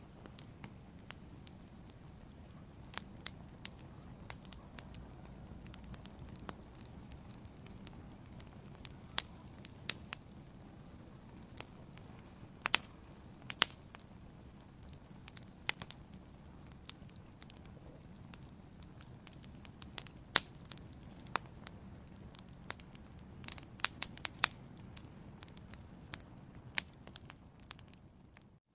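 Wood fire in a fireplace crackling: irregular sharp pops and snaps, a few of them loud, over a soft steady low rush of the flames. The sound drops out for a moment near the end.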